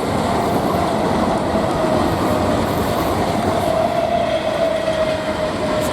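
Class 455 electric multiple unit running past on the track: a steady rush and rumble of wheels and carriages, with a steady high tone held above it.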